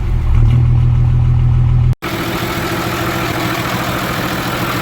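Ashok Leyland bus diesel engine running at raised revs, held up because it stalls when left to idle after five years standing. The sound drops out for an instant about two seconds in, then the engine carries on, sounding brighter and less deep.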